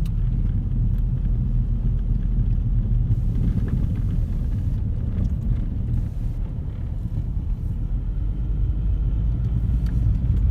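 Steady low rumble, loud and constant, with a few faint clicks.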